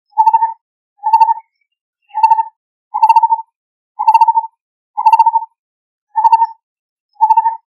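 Lineated barbet calling: a short, low, pulsed note repeated about once a second, some eight times, with silence between notes.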